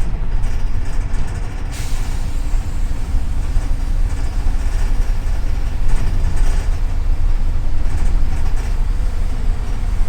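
Double-decker city bus heard from inside the cabin while under way: steady low engine and road rumble, with a sudden hiss setting in about two seconds in.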